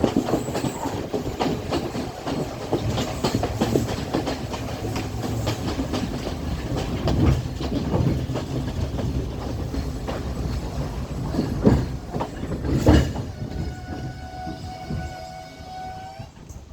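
Class S12 train running on the rails with a continuous rumble and clickety-clack of wheels over rail joints, and two heavy clunks about two-thirds of the way through. In the last few seconds the rumble fades and a steady high-pitched squeal sounds as the train slows.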